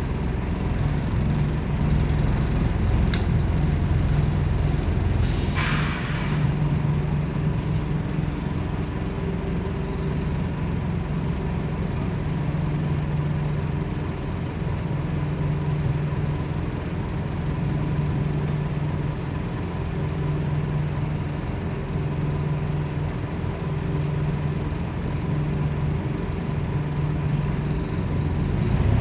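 Scania CN270UB city bus heard from inside, its diesel engine running steadily with a low hum. About six seconds in there is a short hiss of compressed air from the bus's air system.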